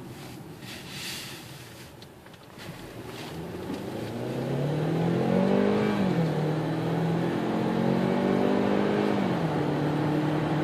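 2013 Hyundai Santa Fe 2.0T's turbocharged four-cylinder engine accelerating hard from a standstill, heard inside the cabin. About three seconds in, the engine note climbs with the revs. It drops at an automatic upshift about halfway through, then climbs again and drops at a second upshift near the end.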